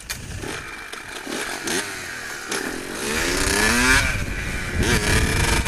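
Pit bike engine running and being revved, its pitch climbing and dropping several times, loudest about four seconds in.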